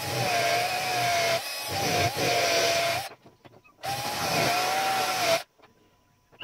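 Small electric power tool running against a metal part, its whine dipping and wavering as it is pressed on, in the course of de-rusting typewriter parts. It runs in two spells, cutting off about three seconds in and again about five and a half seconds in.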